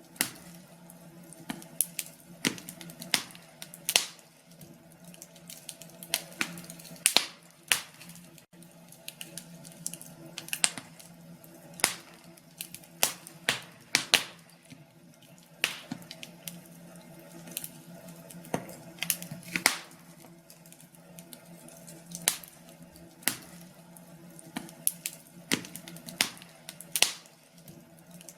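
Wood fire crackling in a fireplace: irregular sharp pops and snaps, a few a second at their busiest, over a faint steady hum.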